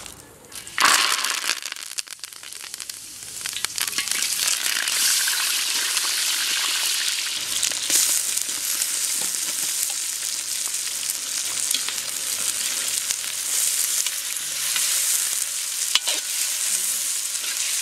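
Sliced onions, garlic and curry leaves hitting hot oil in a large iron kadai with a sudden loud sizzle about a second in, then frying with a steady sizzle while a ladle stirs them, with a few scrapes of the ladle against the pan.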